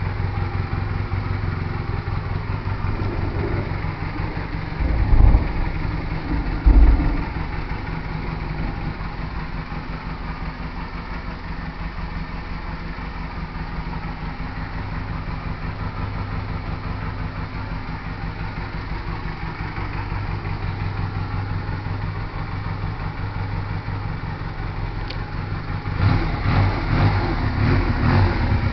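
Honda Rebel 125 twin-cylinder engine idling through an exhaust with drilled-out baffles. There are two short loud bursts about five and seven seconds in, and the engine grows louder and rougher near the end.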